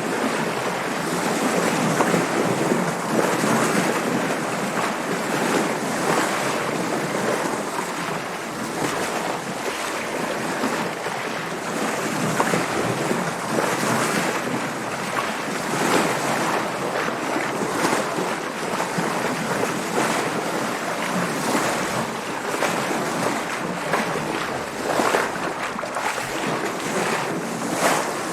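Waves and water splashing around a sailing boat, with wind: a continuous rushing that swells in irregular surges.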